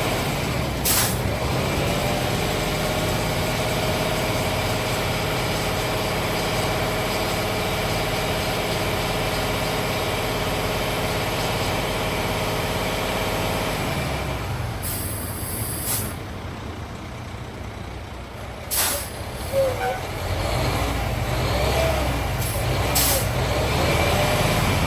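Cat CT660S dump truck's Cat CT13 diesel running steadily, with several short, sharp hisses of released air. The engine drops off about two-thirds of the way through, then picks up and builds again near the end.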